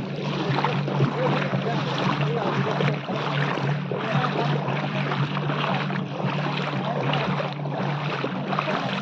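A motor vehicle's engine running with a steady hum, under a steady rushing noise.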